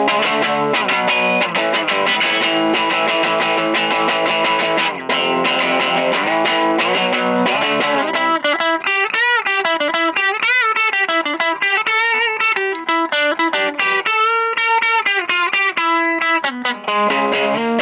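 Electric guitar, a Chapman ML3 Modern, played through a VOX Lil Night Train all-tube amp head. Full chords ring for the first half. From about eight seconds in it switches to single-note lead lines with wide string bends and vibrato. The amp breaks up more the harder the strings are hit.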